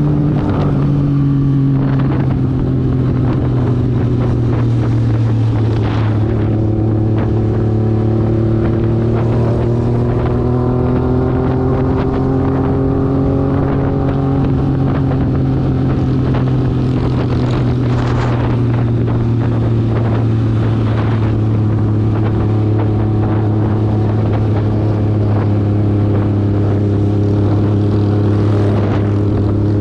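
Motorcycle engine running steadily, as when riding at an even speed, its pitch drifting slowly up and down.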